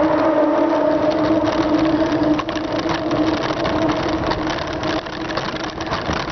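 A motor vehicle's engine humming at a steady pitch close by, starting suddenly and fading out near the end, over the wind and road noise of a moving bicycle.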